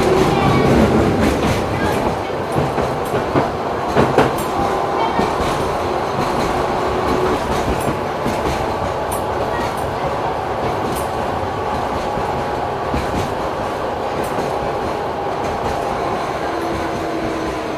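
LM-99K tram running along the track, its wheels knocking over the rails with a series of sharp clicks, loudest in the first four seconds, then a steady rolling rumble.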